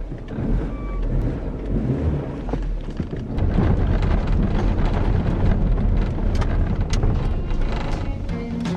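Car on the move: a steady, heavy road rumble with wind buffeting and occasional light ticks.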